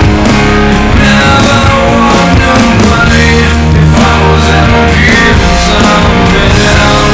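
Rock band playing an instrumental passage: guitars over steady drums, with no vocals in this stretch.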